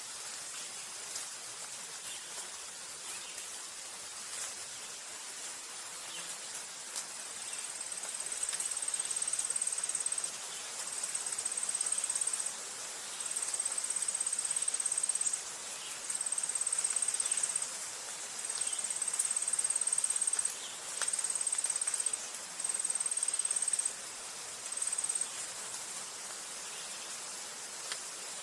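An insect trilling at a high, steady pitch in repeated bouts of one to two seconds with short breaks, starting about eight seconds in. Under it runs a constant outdoor hiss with scattered faint chirps and clicks.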